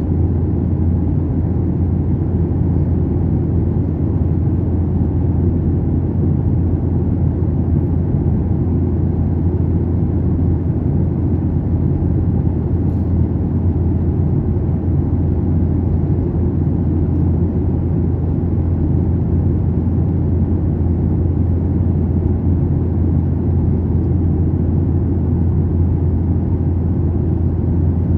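Steady low drone inside a passenger airliner's cabin: engine and airflow noise, unchanging throughout.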